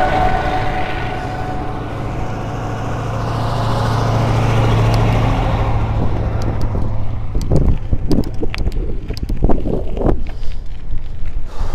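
A steady low rumble of a passing vehicle swells and dies away, and from about six seconds in wind buffets the microphone in irregular gusts.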